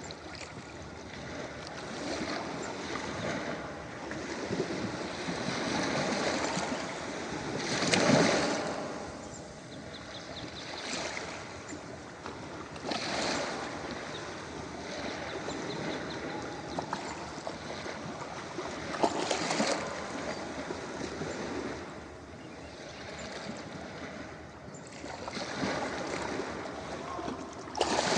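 Ocean waves breaking and washing up a beach: a steady hiss of surf that swells into a louder break every five or six seconds. The biggest break comes about eight seconds in.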